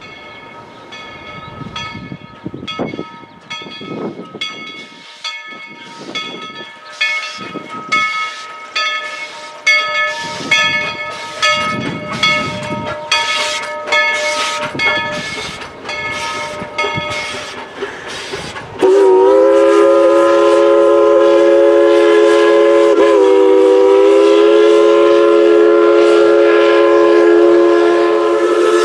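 Narrow-gauge Baldwin 2-8-2 steam locomotive No. 190 working a train, its exhaust chuffs growing louder and quickening. About 19 seconds in its Crosby chime whistle blows a long, loud chord of several tones, with a brief break partway through.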